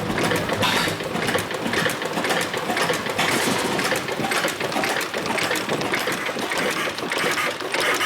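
Frisco Standard 10 hp two-cylinder marine gas engine running steadily with a fast, even mechanical clatter.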